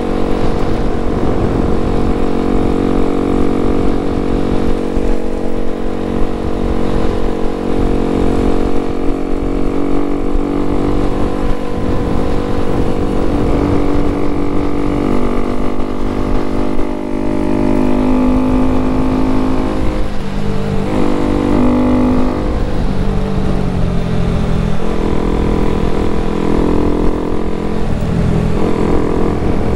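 Honda Grom's small single-cylinder four-stroke engine running at cruising speed, its note steady at first, then dropping and climbing again a few times midway as the throttle changes. Wind rumble on the microphone runs underneath.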